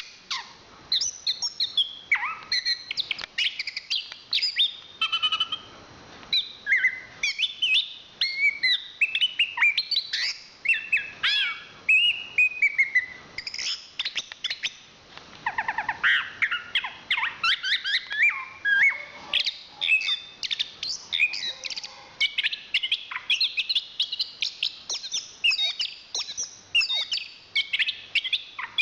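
Chestnut-capped thrush (anis kembang) singing a long, varied song of quick whistled phrases. The phrases glide up and down, with hardly a pause, and a rapid run of notes comes about halfway through.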